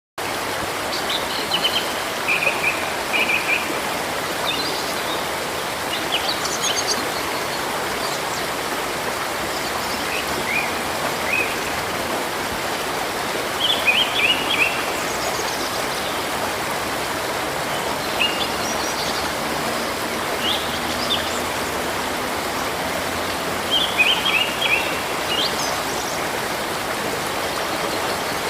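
Steady rushing of a river or stream, with small birds chirping and trilling in short bursts every few seconds above it.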